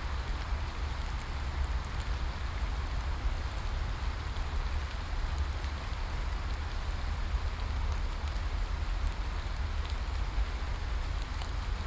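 Steady rain: an even hiss of falling drops with many fine drop ticks, over a constant low rumble.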